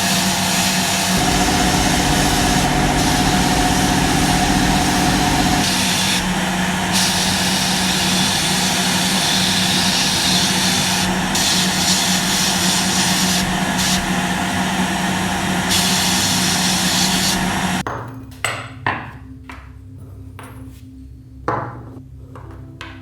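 An electric power tool running steadily with a loud abrasive hiss over its motor hum, the hiss changing as the workpiece is pressed to it, typical of grinding or sanding rust off metal. It stops about three-quarters of the way through, followed by a few light knocks.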